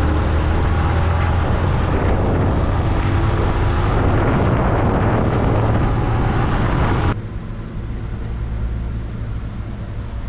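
Motorcycle riding at speed, its engine droning low under heavy wind rush on the helmet or bike-mounted camera's microphone. About seven seconds in the sound cuts sharply to a quieter low rumble.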